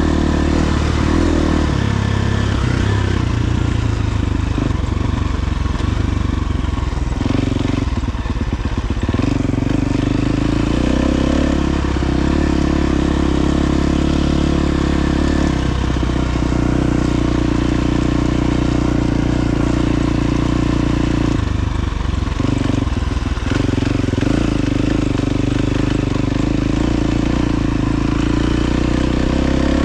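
KTM 350 XC-F dirt bike's single-cylinder four-stroke engine running under throttle while riding. Its pitch holds steady and then shifts twice, at about eight seconds in and again at about twenty-two, as the throttle comes off and back on.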